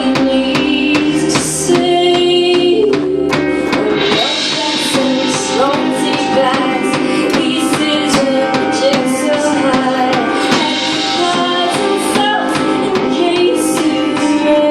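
Live band performance, recorded on a phone: a singer over guitar with a drum beat.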